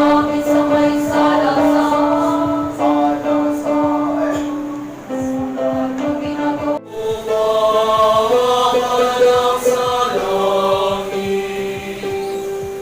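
School choir singing in several voice parts, holding long sustained notes. The singing breaks off abruptly about seven seconds in and picks up again on new notes.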